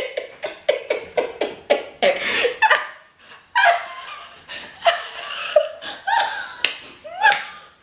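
A woman laughing in a quick run of ha-ha bursts, then further broken laughter.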